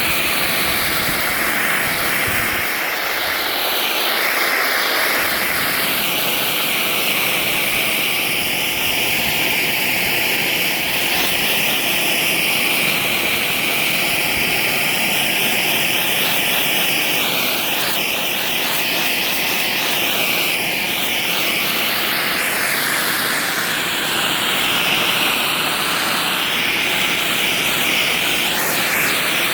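Pressure washer blasting high-pressure water across pavers: a steady, loud hiss of spray that shifts in tone now and then as the spray moves over the surface.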